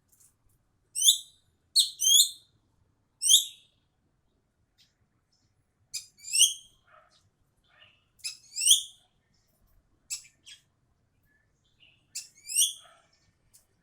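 Ekek keling bird calling: short, sharp calls that sweep down in pitch, given singly or in quick pairs about every one to two seconds.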